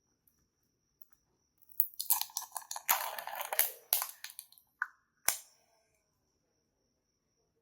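Crackling, crinkly handling noises with several sharp clicks, lasting about two and a half seconds, followed by one more sharp click about a second later.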